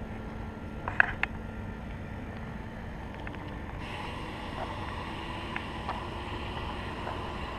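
Steady low background rumble with two sharp clicks about a second in and a few faint ticks later.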